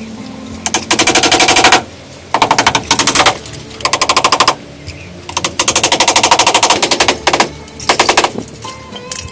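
Five bursts of very rapid, evenly spaced knocking, each burst lasting from about half a second to nearly two seconds, with short pauses between them.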